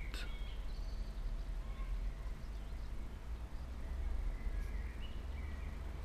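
Birds chirping, with a few short calls near the start and again in the second half, over a steady low rumble.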